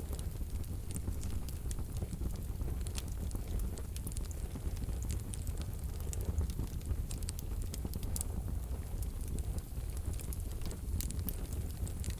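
Wood fire burning in a wood-burning stove: a steady low rumble of flames with frequent small, irregular crackles and pops from the burning logs.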